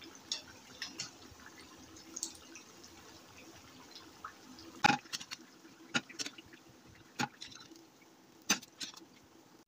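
Battered eggplant slices frying in ghee with a faint sizzle and crackle, as steel tongs clack sharply against the frying pan several times while the pieces are lifted out, the loudest clack about five seconds in.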